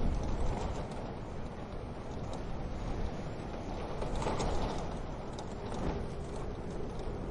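Wood fire crackling in a wood-burning stove: a steady low rumble of flame with scattered small pops and snaps, a brief cluster of louder crackles about four seconds in.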